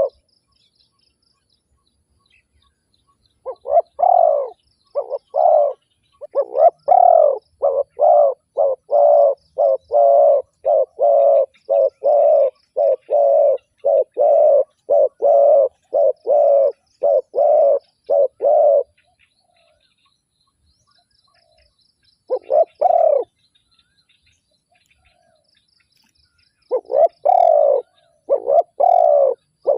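Spotted dove cooing in a long run of quick, repeated coos, about two a second. It pauses, gives one more call, then starts again near the end, over faint high chirping.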